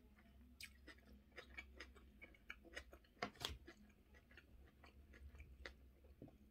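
Faint close-up chewing of crispy pan-fried spaghetti, a steady run of small, irregular crunching clicks.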